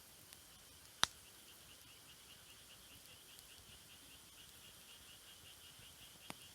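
Wood campfire crackling quietly: one sharp pop about a second in and a softer one near the end, over a faint hiss. An insect, likely a cricket, chirps in rapid, even pulses throughout.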